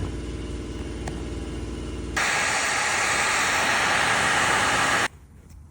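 A steady low mechanical hum, then about two seconds in a loud, steady rushing hiss like blowing air, which cuts off suddenly near the end.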